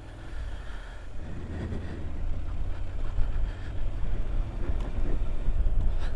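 Honda NC750X motorcycle's parallel-twin engine pulling away, its low rumble and wind noise growing louder over the first two or three seconds, then running steadily.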